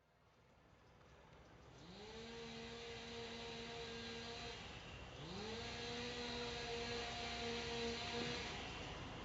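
A chainsaw revved twice in the distance. Each time the pitch rises quickly, holds steady for about three seconds, then drops away.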